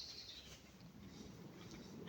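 Near silence with faint light rustling.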